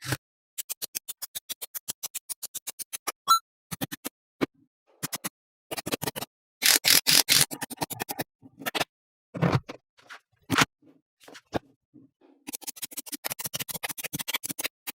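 Small magnet balls clicking and rattling against each other: a fast even run of sharp clicks, dense rattling clusters in the middle, scattered single clicks, and another fast run of clicks near the end.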